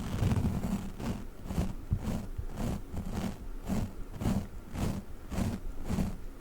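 A Globbles sticky toy ball being handled in a regular rhythm of about two short strokes a second, over a steady low hum.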